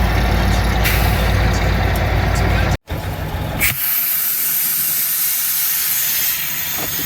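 Old Mack dump truck's diesel engine rumbling steadily while driving, heard from inside the cab; it cuts off sharply about three seconds in, and a steady hiss with a faint engine hum follows.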